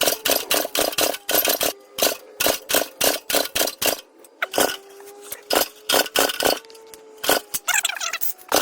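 Small four-stroke engine of a Coleman mini bike being pull-started over and over without catching. The recoil starter sets off a quick run of sharp clicks, about four or five a second, over a faint wavering tone.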